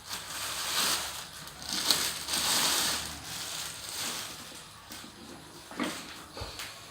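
Packaging of a new vacuum cleaner being handled and rustled as it is unpacked, with a few sharp clicks near the end.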